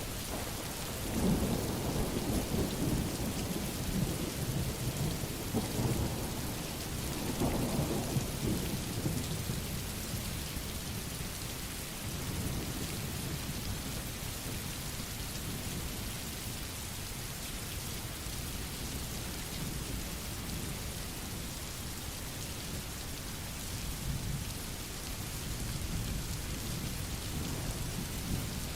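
Steady rain falling, with thunder rumbling through the first several seconds and a fainter rumble again near the end.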